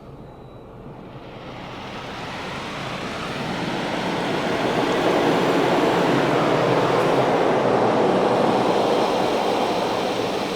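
Rinse water from a Ryko Radius automatic car wash spraying over the car, heard from inside the cabin as a steady hiss that swells from about a second in and eases a little near the end as the spray passes over.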